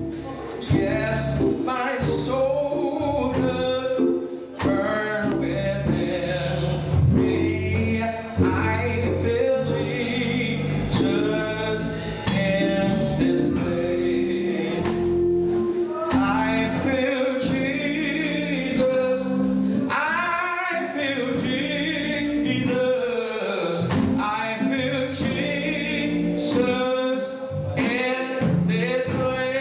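A gospel choir singing with band accompaniment, steady beat with drum hits.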